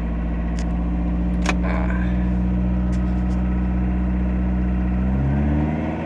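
1981 VW Rabbit pickup's turbocharged 1.6 litre IDI diesel four-cylinder idling steadily, then revving up about five seconds in. A sharp click sounds about a second and a half in.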